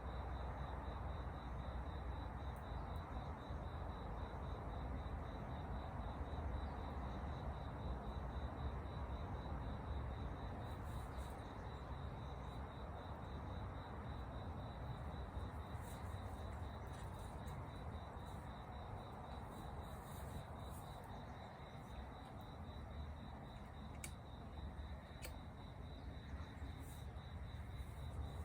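An insect trilling continuously at one high pitch, in rapid even pulses, over a steady low outdoor hiss and rumble. Faint sharp ticks come and go from about a third of the way in.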